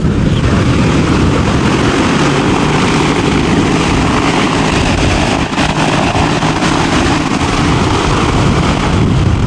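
DHC-4 Caribou's twin radial piston engines and propellers running loud and steady at high power, typical of the propellers in reverse pitch backing the aircraft up after landing.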